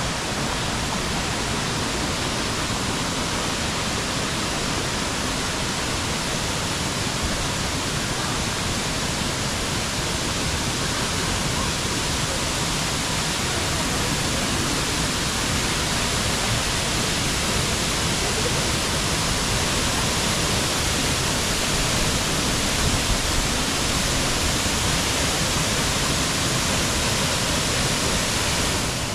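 Minoo Falls waterfall pouring: a steady, unbroken rush of falling water.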